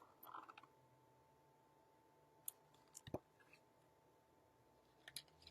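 Near silence: room tone with a faint steady hum and a few soft, scattered clicks.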